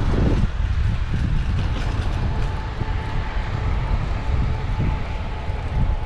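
Wind buffeting a bicycle-mounted action camera's microphone while riding among road traffic, a steady low rumble. A faint steady whine joins about two seconds in.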